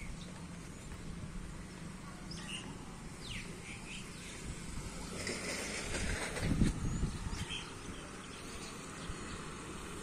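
Outdoor background with faint, short bird chirps from a few birds and a steady low hum, with a louder stretch of noise for a couple of seconds past the middle.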